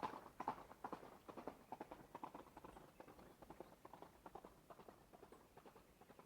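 Hoofbeats of a running horse, a quick rolling run of knocks that gets steadily fainter, as if the horse is moving away.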